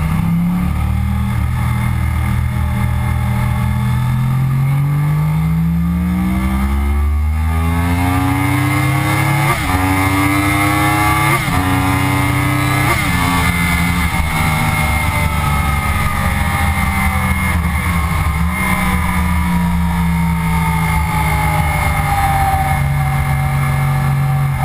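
2009 Yamaha R1's crossplane inline-four engine, heard onboard, accelerating hard out of a corner with the revs climbing. It makes three quick upshifts about two seconds apart. The pitch then falls gradually as the bike backs off.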